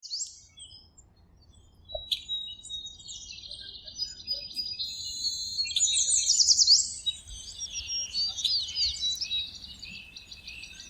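Songbirds chirping and trilling in high, quick notes, sparse at first and busier from about three seconds in.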